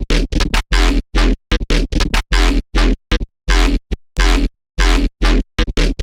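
Serum software synthesizer playing a harsh, noisy wavetable patch made from an image: short, abruptly cut notes over a deep sub-bass in an uneven, stuttering rhythm, with brief silent gaps between hits.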